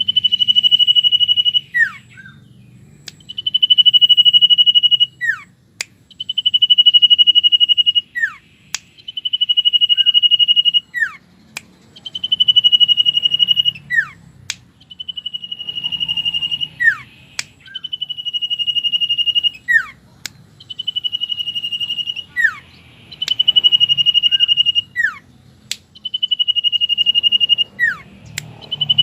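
Common iora (cipow) song: a long, level, high whistle held about a second and a half, repeated about ten times, with short falling notes between the whistles. A low hum runs underneath.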